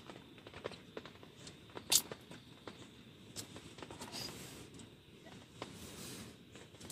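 Scattered soft clicks and rustling over a faint hiss, with one sharper click about two seconds in.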